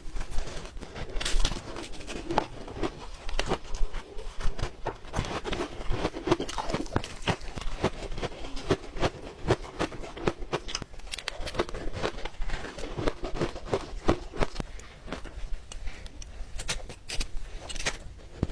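Ice being chewed close to the microphone: a continuous run of irregular sharp crunches and cracks as the ice breaks between the teeth.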